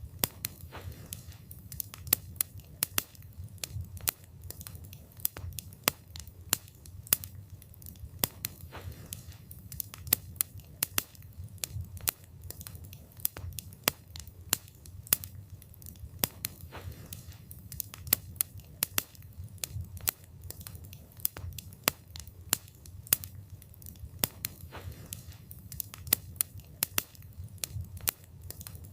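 Wood fire burning with a low, steady rumble and frequent sharp crackles and pops from the burning wood, several a second at irregular intervals.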